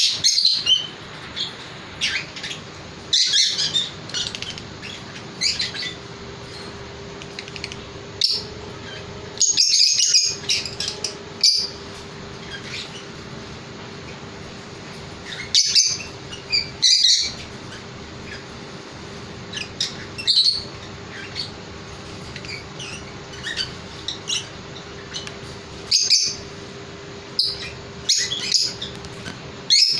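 Birds chirping, many short high-pitched calls at irregular intervals, with a faint steady hum underneath.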